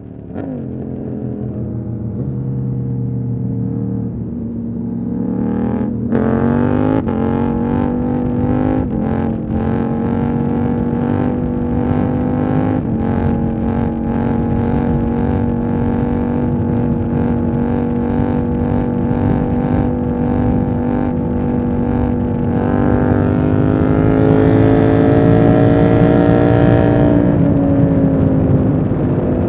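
KTM 890 Duke R's parallel-twin engine on the move, its pitch climbing about six seconds in and then holding steady. Near the end it runs higher for a few seconds before easing back down.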